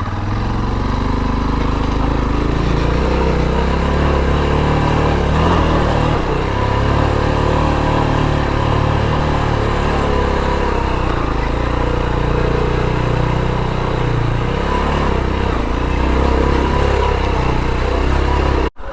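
Motorcycle engine running at low speed on a rough dirt track, its note wavering slightly up and down, with wind and ride noise over it. It cuts off suddenly near the end.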